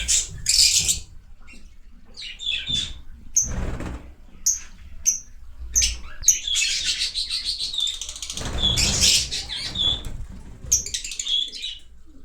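Fischer's lovebirds chirping: many short, high chirps in quick succession, with a couple of longer bursts of rustling noise, near the start and again in the second half.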